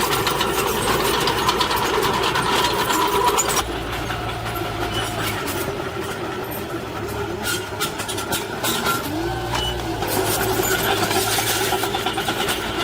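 Diesel engine of heavy earthmoving machinery running, with a rattle of sharp clicks over the engine note. It is louder at first, eases off about a third of the way in, and picks up again near the end.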